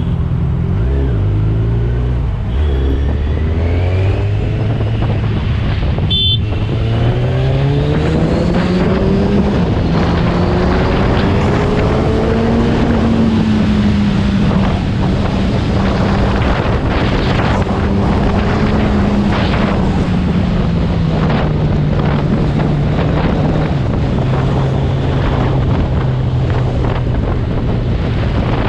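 Superbike engine under way in traffic. Its pitch climbs steadily for about ten seconds as the bike accelerates, then eases off and holds, over a steady rush of wind and road noise.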